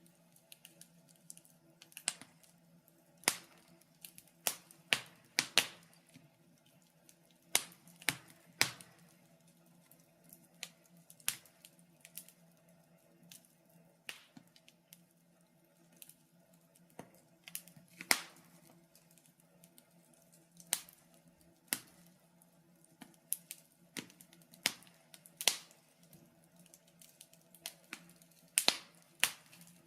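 Wood fire in a fireplace crackling: sharp, irregular pops and snaps, one or two a second, some much louder than others. A faint, steady low hum lies underneath.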